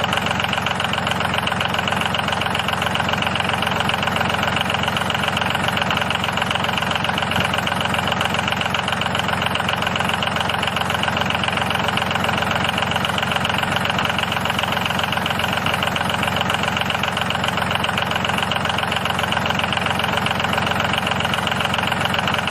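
Small engine-like motor of a DIY miniature tractor running steadily at a constant speed, with a fast, even rattle.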